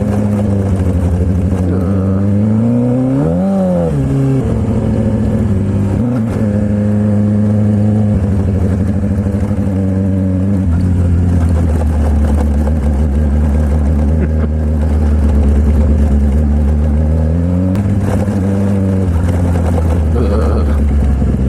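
Sportbike engine running under way, with a steady engine note that rises and falls quickly once a few seconds in, then steps down in pitch at gear changes several times.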